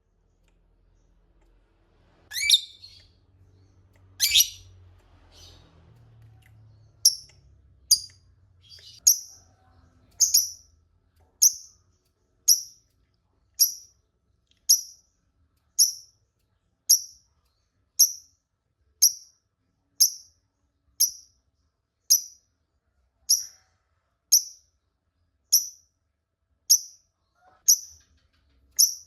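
Lovebird calling: two loud shrill calls, then a long run of short, sharp, high chirps repeated at an even pace of about one a second.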